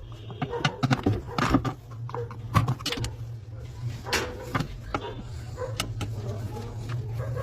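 Irregular metal clicks and knocks of hands and tools working on a top-loading washing machine's pulley, over a steady low hum.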